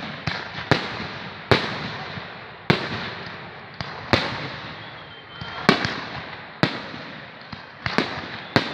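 Fireworks bursting overhead: about ten sharp bangs, roughly one a second, each trailing off in a long rolling echo.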